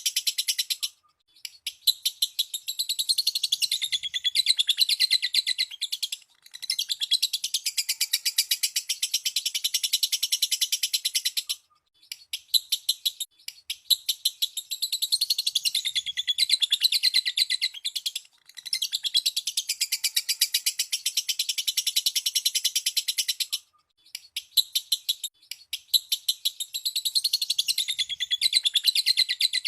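Lovebird chattering in a very fast, continuous high-pitched trill, the long 'ngekek' song used as a lure to set other lovebirds singing, coming in bouts of several seconds with short breaks between.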